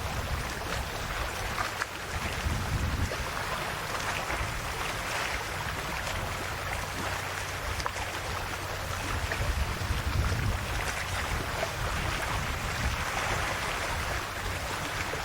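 Calm Adriatic sea waves washing gently onto the shore, the wash swelling and easing every few seconds.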